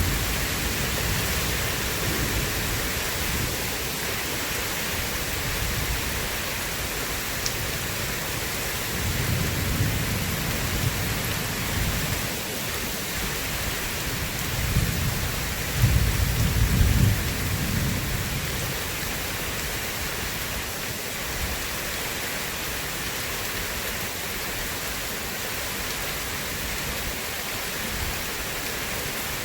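Steady rain with rolls of thunder: one low rumble about a third of the way in and a louder, longer one a little past the middle, over an even hiss of rain.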